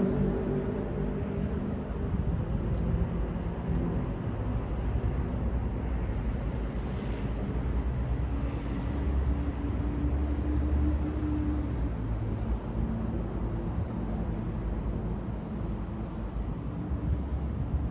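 City street traffic: cars and other vehicles passing, a steady wash of engine and tyre noise.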